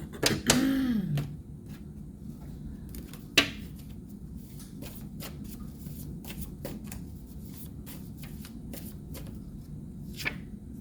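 Tarot cards being handled, shuffled and laid down: scattered light clicks and snaps of card stock, with one sharper snap about three seconds in. A brief hum of a voice sounds near the start.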